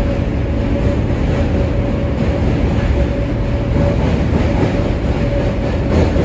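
R143 subway car running on the track: a steady rumble of wheels on rail with a constant whine over it, and a single knock near the end.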